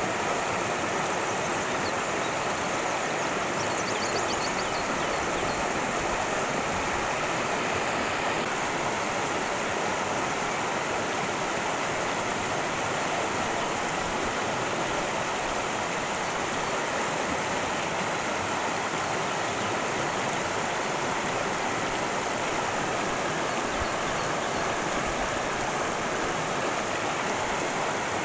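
Creek water cascading over rocks: a steady, unbroken rushing. A brief faint high chirping comes about four seconds in.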